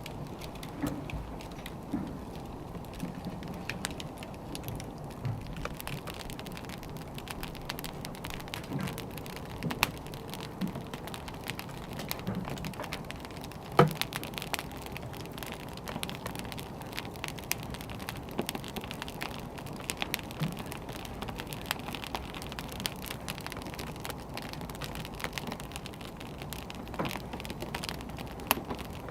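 Burning firewood crackling and popping steadily over a low rumble of flames, with one sharper, louder pop about halfway through.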